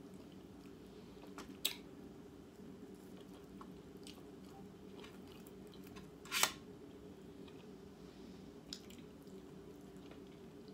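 Quiet eating of a steak on the bone: faint chewing and cutting, with a few sharp clicks of a knife and fork against the plate, the loudest about six seconds in, over a steady low hum.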